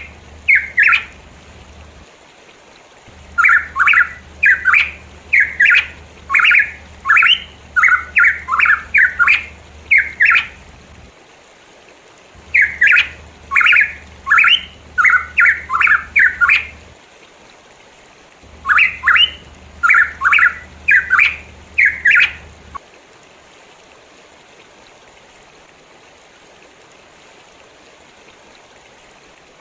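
Pitohui calling in rapid runs of short notes that sweep up and down in pitch, in four loud bursts with short pauses between, stopping about 23 seconds in. A steady soft rushing, like running water, carries on underneath and is left alone after the calls stop.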